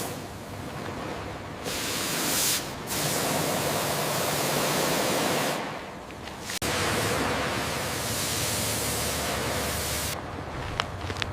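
Steady hiss of spraying, rushing water, in several stretches broken by abrupt cuts, with a few sharp clicks near the end.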